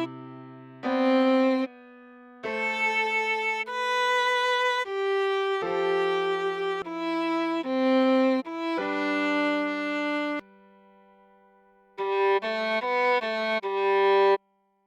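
Viola playing a slow melody one held note at a time, at times over a lower sustained note, with two short pauses and a quicker run of short notes near the end.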